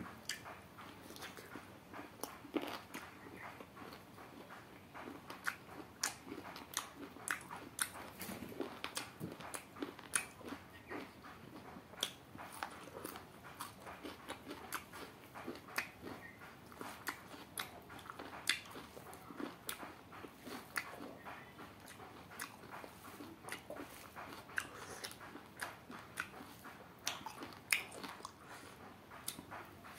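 A person chewing and biting duck meat with rice, with many irregular crunches and mouth clicks.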